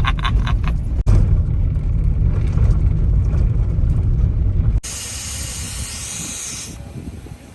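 Jeep driving, a heavy low rumble of engine and tyres. It cuts off abruptly about five seconds in and gives way to a steady hiss for about two seconds.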